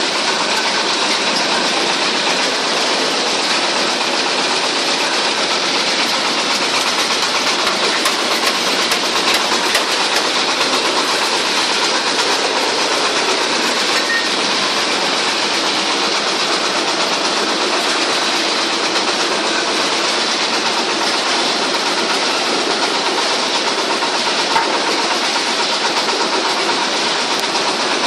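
Wood chipper running: a loud, steady mechanical din with no pauses or changes in level.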